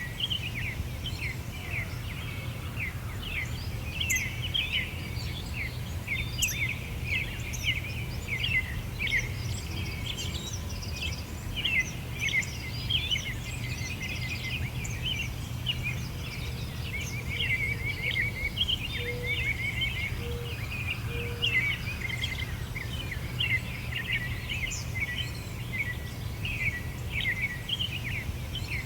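Songbirds chirping and twittering in a dense, continuous chorus of short high notes, over a steady low background rumble. A few short low notes come in about two-thirds of the way through.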